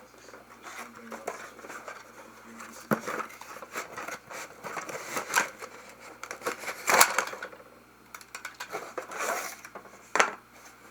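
A cardboard toy box and its plastic contents being handled: scraping, rustling and light clicks and knocks, with sharper knocks about seven seconds in and again near the end.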